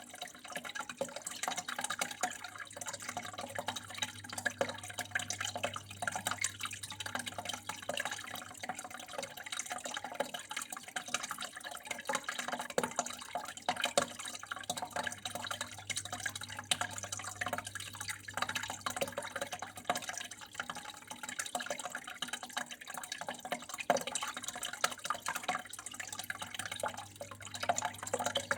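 Water flowing and dripping continuously, a dense steady patter of small splashes, with a faint low hum underneath.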